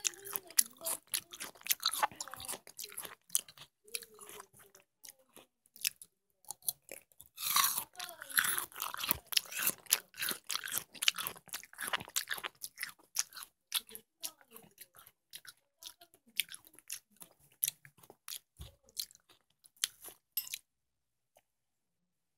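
Close-miked bites and chewing of watermelon: a dense run of crisp, juicy crunches, with a louder stretch about a third of the way through. The chewing stops about two seconds before the end.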